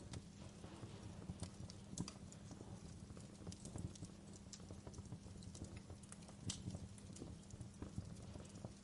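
Wood fire crackling steadily in a fireplace: irregular sharp pops and snaps over a low hiss and rumble of burning logs, with a louder pop about two seconds in and another about six and a half seconds in.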